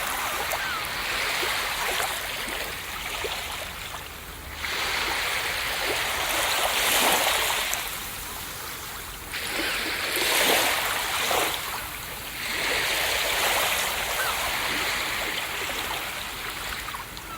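Ocean waves breaking on a beach, the surf rushing in and falling back. Several waves wash in one after another, each surge swelling and then fading.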